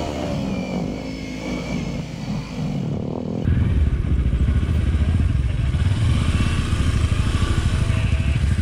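Motorcycle engine running while riding, with a low rumble that jumps suddenly louder about three and a half seconds in and stays loud.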